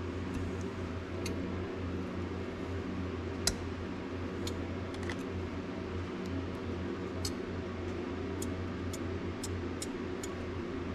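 Colorant being stirred into liquid plastisol in a cup, giving light, irregular ticks of the stirrer against the container. A steady low hum runs underneath.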